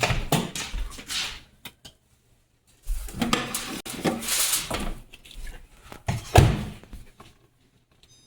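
Knocks and rustling from handling things in a small room, in three stretches, with one sharper knock a little after six seconds in.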